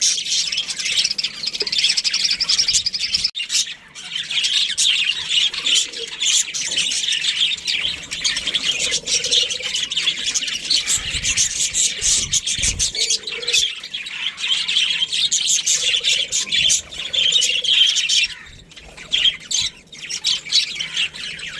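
Budgerigars chirping and chattering without a break, a dense run of quick high chirps with short squawks mixed in.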